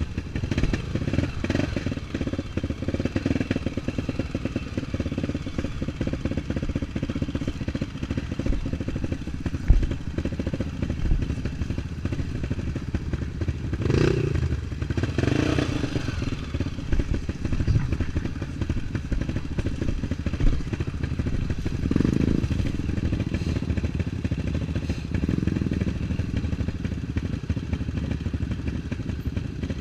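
Single-cylinder four-stroke trail motorcycle engine running on and off the throttle, with a few louder swells around the middle and later on.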